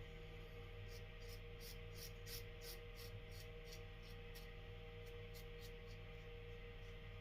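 Faint, rapid strokes of a Merkur Futur adjustable safety razor scraping stubble, about three short scrapes a second, over a steady low hum.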